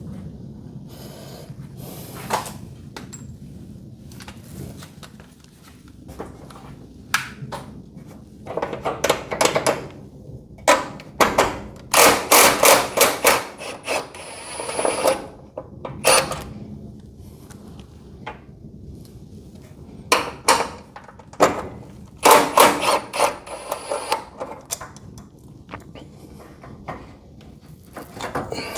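Knocks and metallic clatter of hand tools and garage door hinge hardware being handled, in irregular clusters, with a brief high metallic ring twice.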